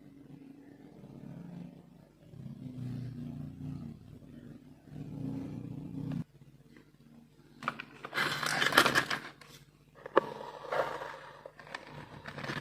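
Marbles rolling along a plastic marble-run track, a low rumble that cuts off suddenly about six seconds in, then clattering and clicking over the last few seconds.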